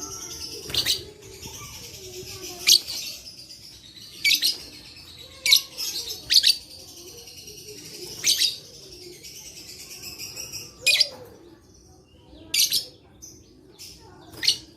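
Lovebirds calling: about nine sharp, shrill, short calls spaced a second or two apart, over a softer, continuous high chatter.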